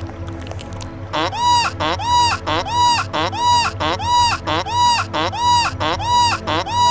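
A honking animal call repeated evenly, about one and a half calls a second, starting about a second in. Each call rises, holds one pitch and drops off, over a steady low hum.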